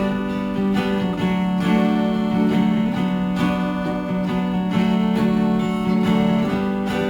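Acoustic guitar playing an instrumental break in a folk song: steady strummed chords carrying the melody.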